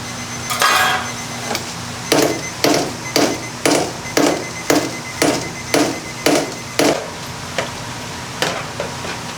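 Rhythmic chopping strikes on a work surface, about two a second for roughly five seconds, then a few more near the end, over a steady low hum.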